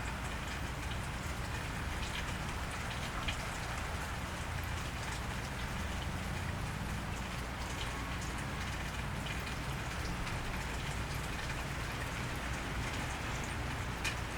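Steady rain falling on wet pavement, with many small drop ticks, over a steady low rumble.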